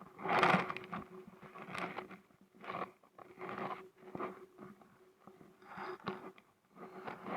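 Kayak paddle strokes splashing in the water, a swish about once a second, alternating as the blades dip and pull.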